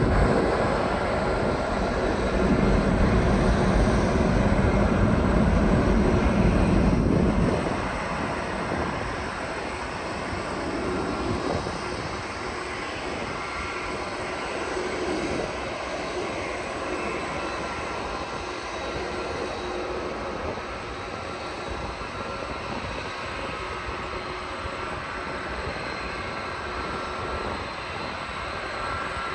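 Jet airliner engines passing on landing approach: a loud low rumble that falls away suddenly about seven seconds in, leaving a fainter steady engine noise with a thin high whine.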